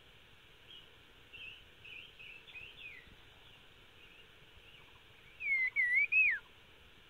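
A bird calling: faint short chirps in the first few seconds, then a loud whistled phrase of three slurred notes, the last one falling, about five and a half seconds in.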